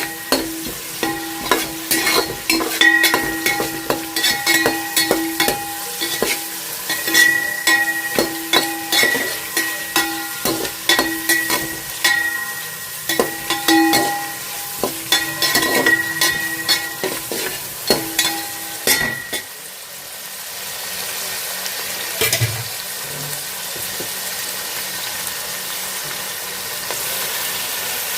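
A metal spoon stirring and scraping food in a pan over sizzling oil, with rapid knocks and clinks against the ringing metal. The stirring stops about two-thirds of the way in, leaving only the steady sizzle of frying.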